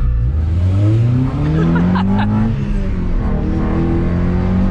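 A car accelerating hard: the engine note climbs steadily, drops at a gear change about two and a half seconds in, then climbs again.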